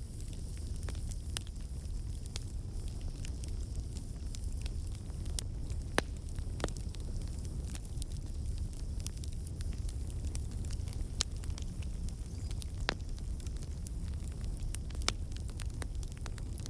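Wood campfire burning: a steady low rumble of the flames with sharp, irregular pops and crackles from the logs, the loudest pop about six seconds in. The crackling comes from water and sap in the wood turning to steam and bursting out.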